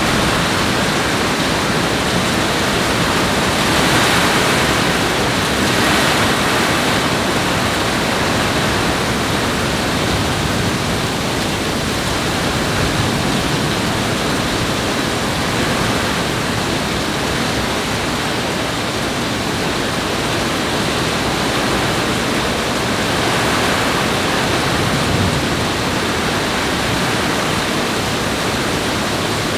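Steady, loud rush of falling water, unbroken, swelling slightly a few seconds in.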